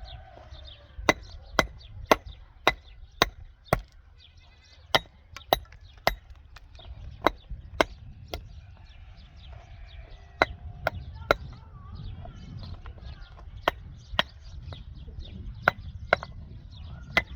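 A hand tool striking wood in sharp blows, about two a second in irregular runs with short pauses between, as in chopping or driving into timber during building work.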